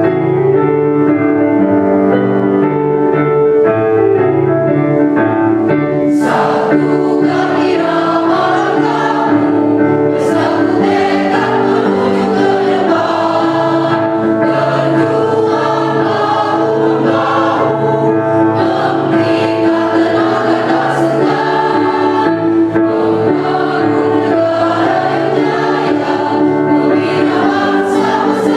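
A mixed choir singing a march to keyboard accompaniment. The keyboard plays held chords alone at first, and the choir comes in about six seconds in.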